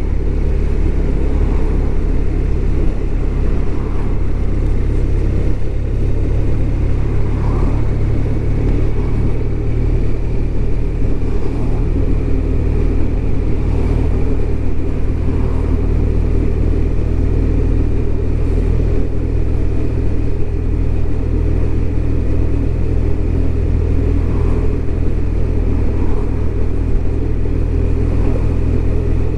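BMW R1200RT's boxer twin engine running at a steady cruise, its pitch holding even, under a constant rush of wind and road noise.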